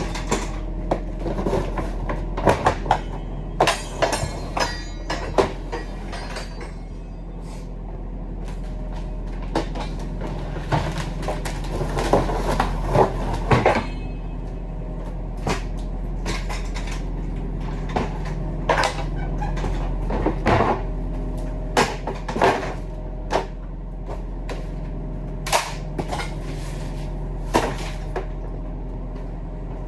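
Steady low engine-like drone with many irregular knocks, clunks and rattles over it, coming in clusters of several a second at times.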